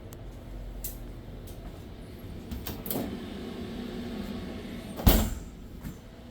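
A steady low hum with a few light clicks and knocks, then one sharp, loud thump about five seconds in, like something being shut.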